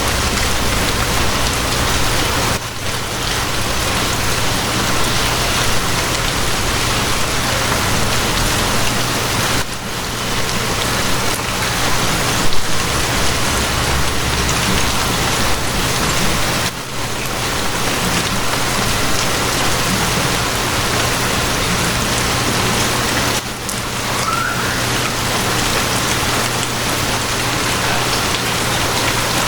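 Steady heavy rain, a dense even hiss, with a low steady hum underneath. The rain briefly dips in level about every seven seconds.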